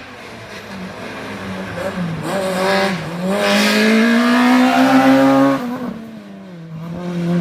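Race car engine under hard acceleration, its pitch and loudness rising over several seconds with a brief dip about three seconds in, then cutting back suddenly about five and a half seconds in and settling to a lower, steadier note.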